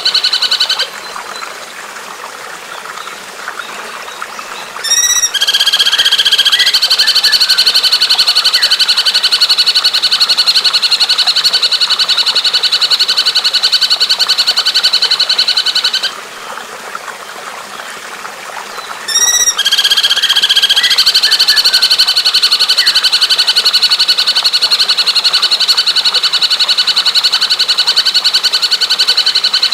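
Recorded bird song played as a masteran: a short call, then a long, even, rapid rattling trill lasting about ten seconds. The sequence comes twice, with a few seconds of faint hiss between.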